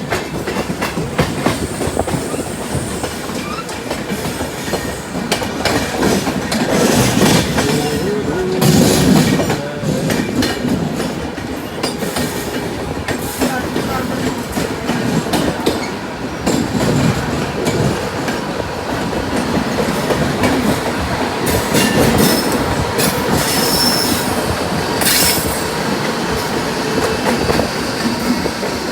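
Express passenger train running through a junction, its wheels clattering over the points and rail joints with short metallic squeals from the wheels now and then, over a steady loud rumble.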